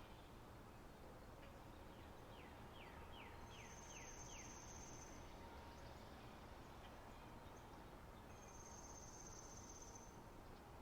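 Faint spring-meadow nature ambience: a high, thin buzzing trill sounds twice, each under two seconds, and just before the first a run of about seven quick descending chirps.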